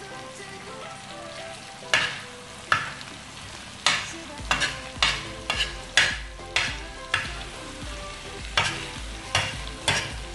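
Metal spoon scraping and stirring boneless chicken in a cream masala on a hot flat tawa, over a steady sizzle of frying. From about two seconds in there are a dozen or so sharp scrapes at an irregular pace.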